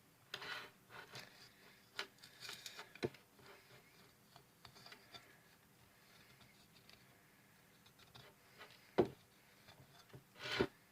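Spoon scraping and tapping at dried soap leftovers: faint scrapes and small clicks with a few sharper knocks, the loudest two near the end.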